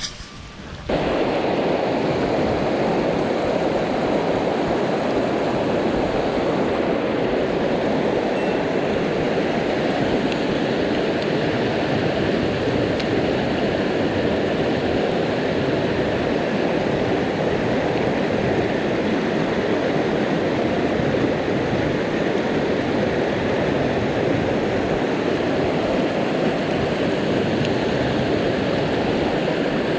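Rushing water of a headwater mountain stream: a steady, loud, even roar of flowing water that starts abruptly about a second in.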